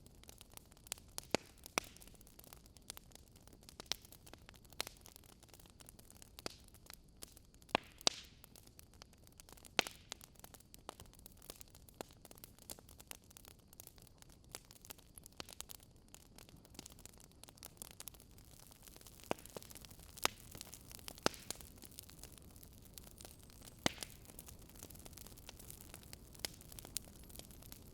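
Campfire crackling, with irregular sharp pops over a faint steady hiss.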